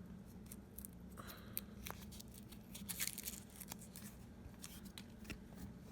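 Light clicks and taps of parts and adhesive foam pads being handled, with a short scratchy tearing sound about three seconds in, like backing paper being peeled off a sticker pad.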